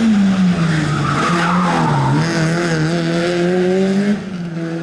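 Rally car engine running hard through the stage: its pitch falls in the first second, dips again about two seconds in, then climbs steadily as it accelerates. The tyres skid briefly about a second in, and the engine gets quieter near the end as the car draws away.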